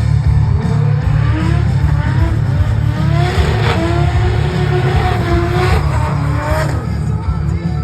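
Drift car engine revving hard, its pitch climbing and dropping again and again, over a loud rumble and tyre squeal as the car slides.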